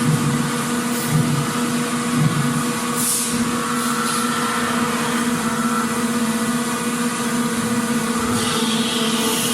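Factory machinery running steadily with a droning hum, with short hisses of air about three seconds in and again near the end.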